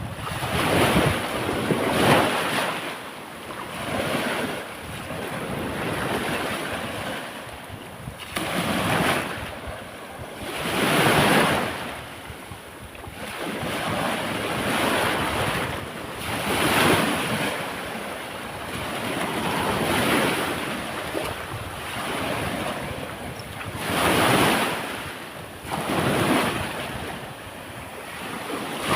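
Sea waves breaking and washing up the beach, swelling and falling every few seconds, with wind on the microphone.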